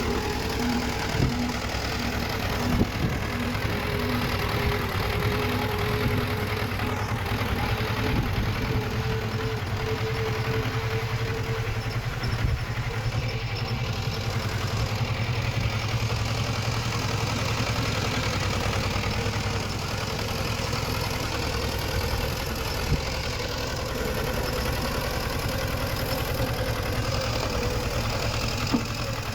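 Diesel engine of earthmoving machinery running steadily, with a low rumble and a steady whine through roughly the first half. A few sharp clanks stand out, about a second in, near three seconds and near the end.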